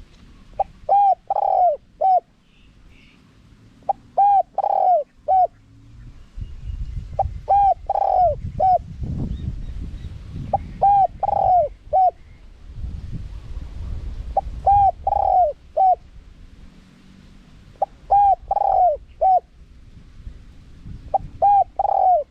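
Spotted dove cooing: the same phrase of several short, throaty coos repeated about every three and a half seconds, with a low rumble of background noise beneath.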